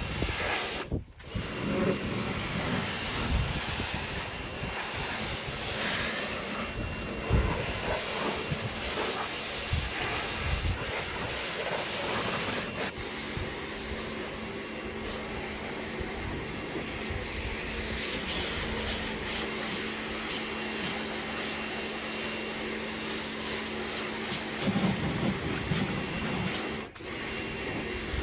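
Pressure washer spraying water onto a car, a steady hiss of spray, with the washer's motor humming steadily for a stretch in the middle.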